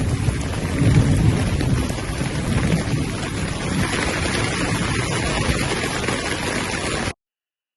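Rain falling steadily, with a deep low rumble underneath. The sound cuts off suddenly about seven seconds in.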